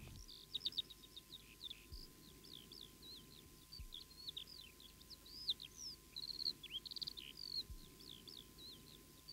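Songbirds chirping and twittering quietly: a busy run of many short, high chirps and trills.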